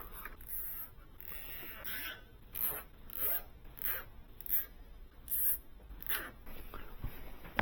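A run of about seven short zipping, rasping strokes, roughly one every two-thirds of a second, from hands working on parts during a desktop PC build.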